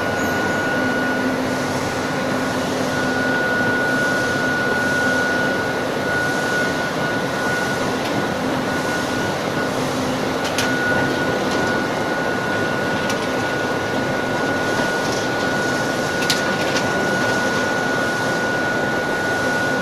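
Glass tempering furnace running: a steady rushing machine noise with a constant high whine, and a few light clicks.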